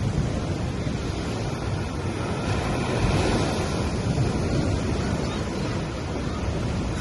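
Small waves breaking and washing up on a sandy beach, a steady rushing wash that swells a little about three seconds in. Wind rumbling on the microphone runs underneath.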